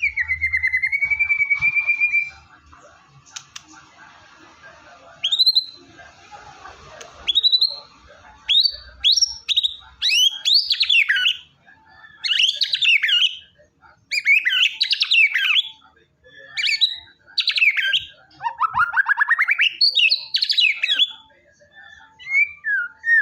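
White-rumped shama (murai batu) singing: a held whistled note at the start, then rising whistles building into rapid, varied song phrases with short pauses between them.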